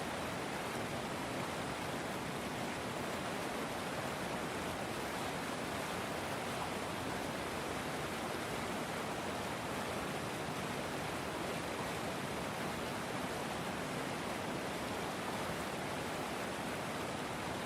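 Flowing river water: a steady, even rushing.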